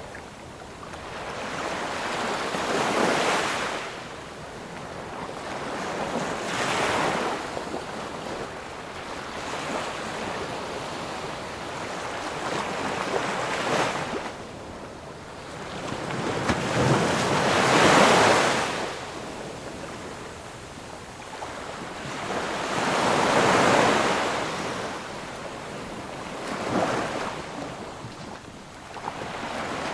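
Ocean waves breaking and washing ashore, the surf swelling and fading in about six surges a few seconds apart, the loudest about halfway through.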